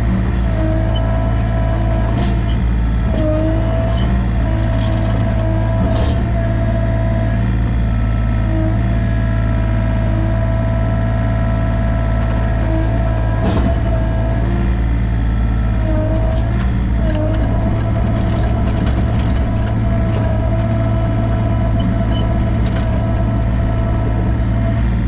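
Sany mini excavator's diesel engine running steadily under the operator, with a whine that dips briefly in pitch now and then and a few sharp knocks.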